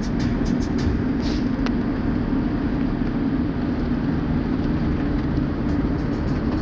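Steady road and engine rumble heard from inside a moving vehicle, with a few faint light ticks.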